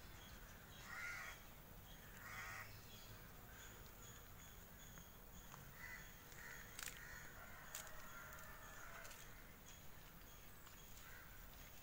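Quiet outdoor ambience with a few faint, distant bird calls and a couple of soft clicks.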